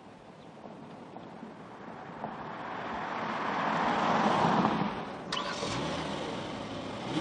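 A car driving past: its engine and tyre noise swells to a peak about halfway through and then fades. There is a sharp click a little after five seconds.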